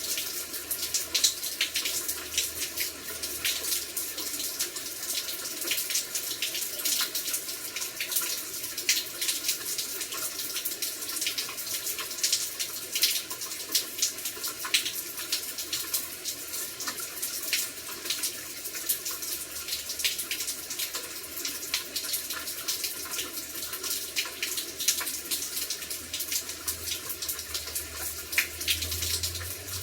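Heavy rain falling: a steady rushing hiss of water, dotted throughout with many sharp drop hits.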